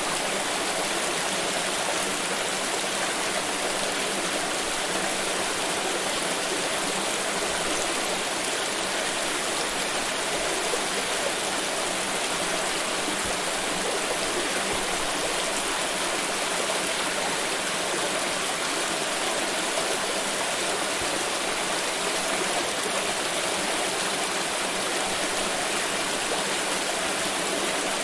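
Water pouring steadily, a continuous even splashing rush with no pauses.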